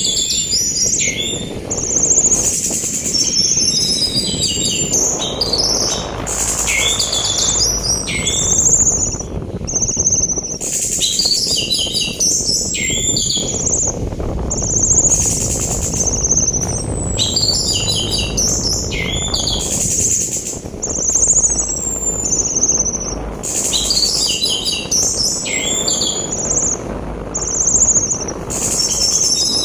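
Orange-headed thrush song: repeated bursts of quick, high chirps, trills and downslurred whistles, over a steady sea-wind rush.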